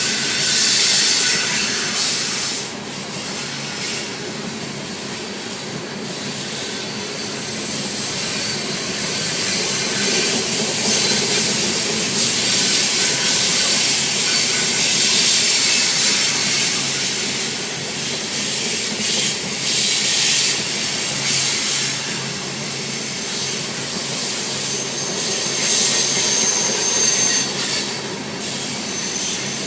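Coal train's cars rolling steadily past: steel wheels running on the rails as a continuous loud rumble and hiss, with brief high-pitched wheel squeals near the start and again near the end.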